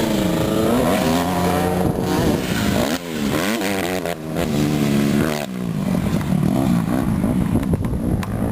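150R dirt bike engine under riding, its revs rising and falling again and again as the throttle is opened and closed. The throttle is shut briefly twice, letting the revs drop before it pulls again.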